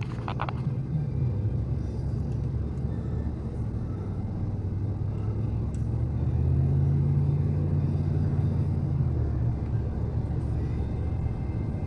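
An engine running steadily with a low rumble, growing a little louder for a few seconds in the middle.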